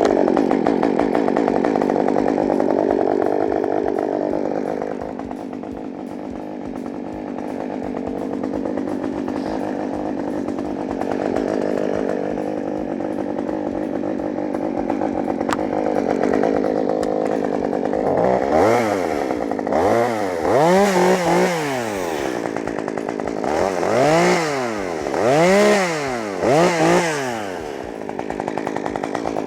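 Chainsaw cutting through a snapped tree, running steadily under load, then revved up and down several times from about two-thirds of the way in, its pitch rising and falling with each throttle blip.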